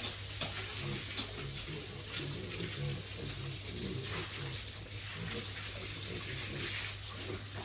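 Running water splashing steadily as a sow is washed down, with low, irregular pig grunts underneath.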